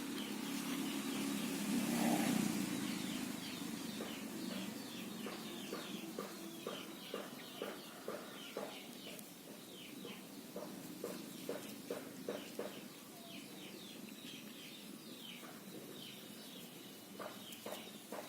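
Squirrel giving its alarm call: a long series of short, sharp chirps, about three a second, the sign of a startled squirrel. A low rumble fades out in the first few seconds.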